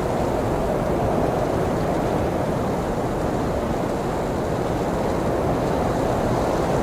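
Blizzard wind blowing steadily: a dense, low rushing noise with no gusts or breaks.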